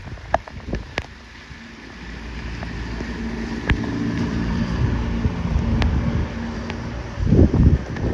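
A motor vehicle passing on a wet road, its engine hum and tyre noise building over several seconds, with a few sharp ticks scattered through it. Near the end a gust of wind buffets the microphone.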